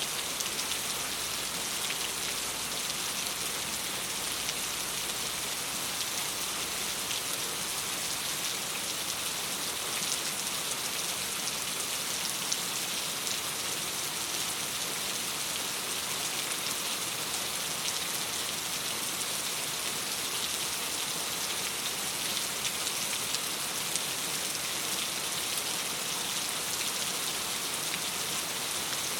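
Steady rain pattering on a window glass: a dense, even hiss with fine scattered ticks of individual drops.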